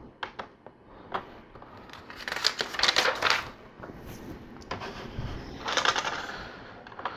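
Plastic LEGO pieces clicking and rattling as they are handled and fitted together: a few single clicks, then two short bursts of rapid clicking and rattling, the first about two and a half seconds in, the second near six seconds.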